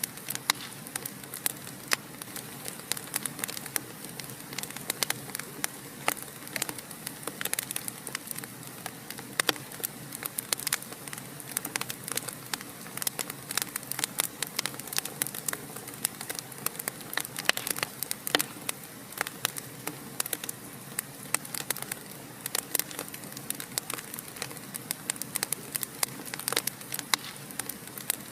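Fire crackling in a fireplace: irregular sharp pops and snaps, several a second, over a steady soft hiss.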